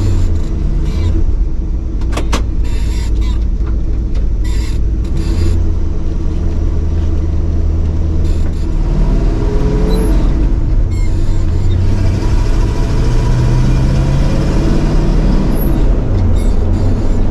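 Old tow truck's engine running as it drives along, heard loud from the cab, its pitch climbing about nine seconds in and dipping and climbing again near the end; a few short rattles about two seconds in.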